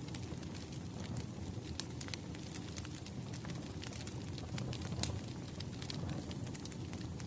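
Burning firewood crackling: scattered sharp pops and snaps over a steady low rumble of the fire.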